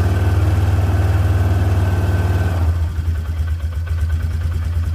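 ATV (quad) engine idling just after a cold start, with a low, rapid exhaust pulse. About two and a half seconds in it settles to a slightly quieter idle.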